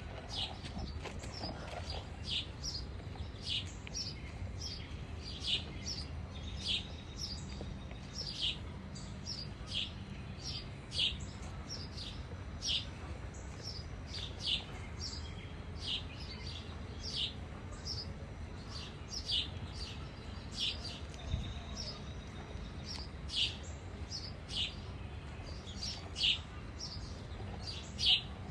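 A bird calling over and over with short, high chirps that fall in pitch, about one or two a second, over a low steady background rumble.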